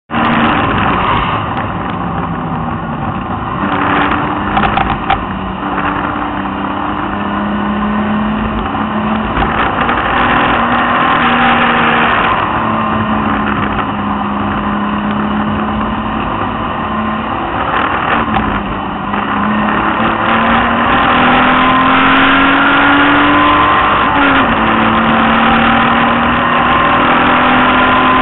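BMW E30's engine heard from inside the car at speed, its note climbing slowly and dropping back at each gear change or lift, over a steady hiss of wet tyres and spray.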